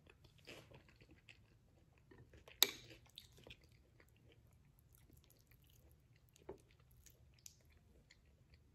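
Quiet chewing of a soft mouthful of vegan shepherd's pie, with small wet mouth clicks. A single sharp clink about two and a half seconds in, the metal spoon against the ceramic bowl, and a softer one later.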